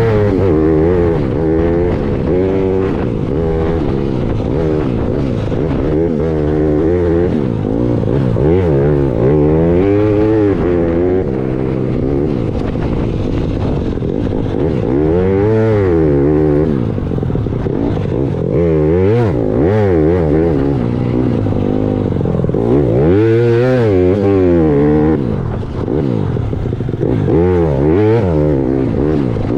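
Dirt bike engine revving up and dropping back again and again as it is ridden, its pitch climbing and falling every second or two.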